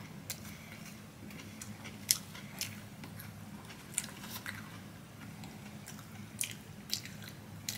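Close-miked chewing of crunchy Burger King onion rings: scattered crisp crunches and mouth clicks over a low steady hum.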